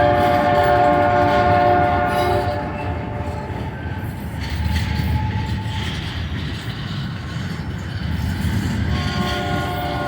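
A locomotive's Nathan K5LA five-chime air horn sounds a chord that cuts off about two seconds in and starts again faintly near the end. In between, the diesel locomotives and stack train pass with a steady low rumble and wheel clatter.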